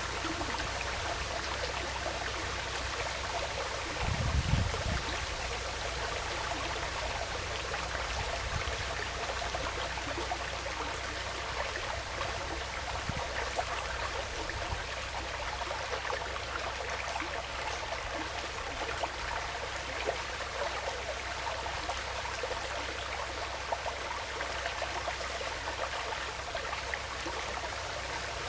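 Small woodland stream flowing steadily, an even rushing and trickling of water. There is a brief low rumble about four seconds in.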